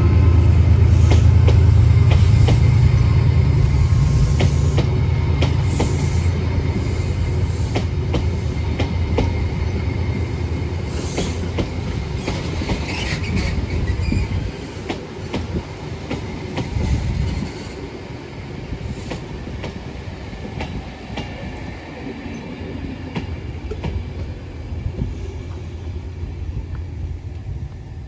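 Class 68 diesel locomotive's Caterpillar V16 engine running loudly, then fading about halfway through as it draws away, while the Mk3 coaches and driving van trailer roll past with steady wheel clicks over the rail joints. A brief wheel squeal comes about halfway through.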